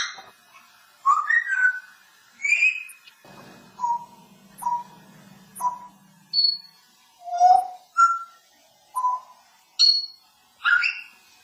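Parrot whistling a string of about a dozen short notes and chirps, some low and some higher-pitched, with short pauses between them.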